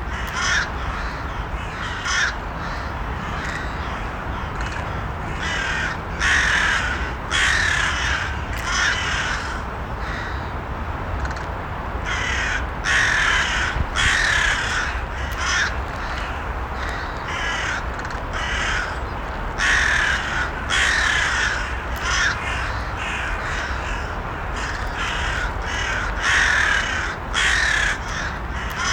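Crows cawing, harsh calls coming in clusters of several every few seconds, over a steady low background rumble.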